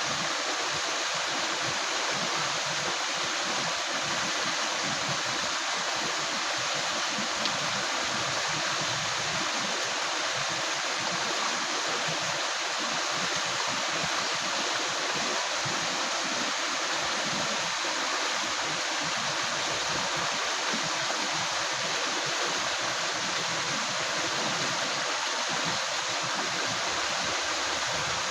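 Shallow river flowing steadily, its water gurgling and rushing in an even, unbroken wash.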